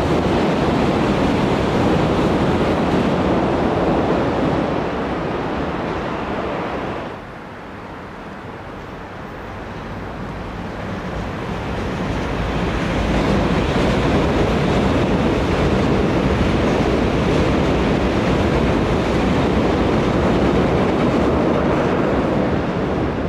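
Electric commuter trains running past on the rails: a steady rushing rumble of wheels, loud as one train passes close and then fading, broken off abruptly about seven seconds in. A second passing train builds up again and stays loud before fading near the end.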